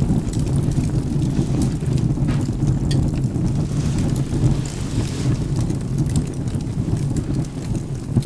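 Rain with a steady, deep thunder rumble, over which a wood fire gives scattered sharp crackles.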